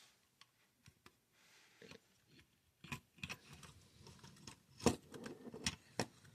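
Hot Wheels toy-car packaging being handled and opened: scattered clicks and crinkling of plastic and card, busier in the second half, with a few sharp clicks near the end.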